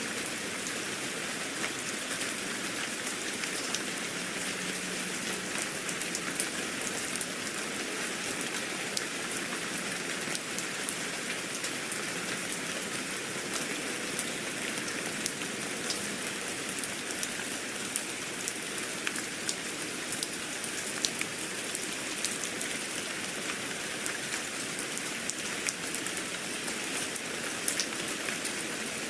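Steady rain: an even hiss with many single drops ticking on a surface.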